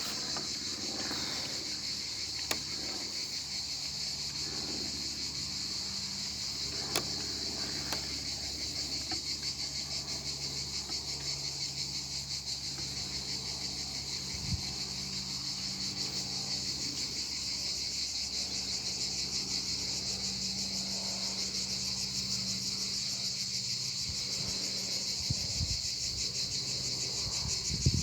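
Insect chorus: a steady, high, continuous trilling. A faint low hum and a few short clicks sit underneath it.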